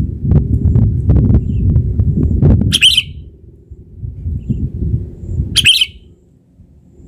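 Sooty-headed bulbul (kutilang) giving two short calls, about three seconds in and again near six seconds. A loud low rumble underlies the first part and stops shortly after the second call.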